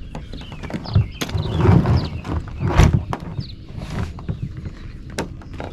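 Irregular knocks and clattering, heaviest in the first half, with short high chirps scattered through.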